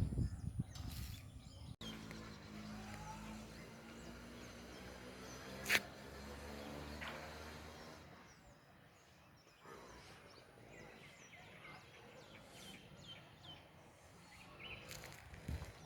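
Faint outdoor rural ambience with birds chirping, mostly in the second half. A low steady hum runs through the first half, and there is a single sharp click near the middle.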